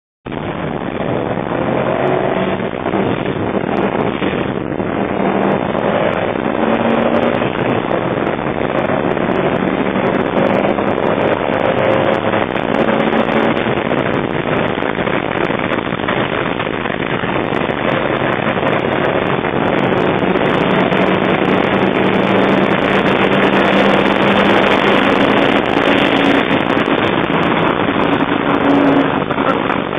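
Car engine under hard acceleration heard from inside the cabin, loud over heavy road and wind noise; the engine note climbs and steps several times.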